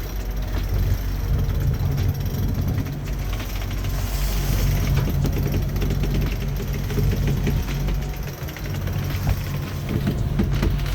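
A sailboat's auxiliary engine running steadily while motor-sailing, with wind and water noise over it.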